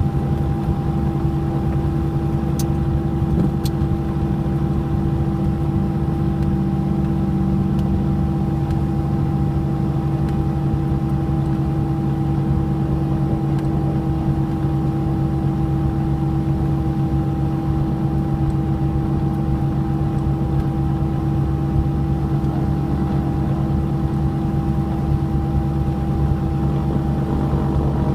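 Cessna 421's twin piston engines and propellers running at a steady power setting: an unchanging drone with a few fixed tones over a broad hum.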